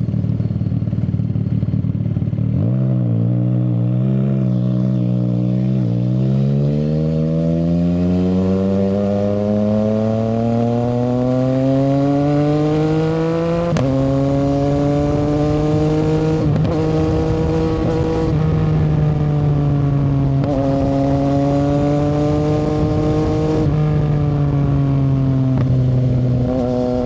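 CFMoto 675SR-R sportbike's inline-three engine through an aftermarket shorty exhaust, under way. The note climbs steadily for several seconds as the bike accelerates through a gear, drops sharply at a gear change about halfway through, then holds a fairly steady cruise with small rises and dips as the throttle changes.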